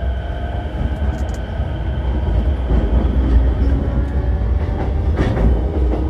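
Running noise inside a JR E233-7000 series electric commuter train's motor car at speed: a steady low rumble of wheels on rail under a steady hum of the traction equipment, with a couple of sharp clicks near the end.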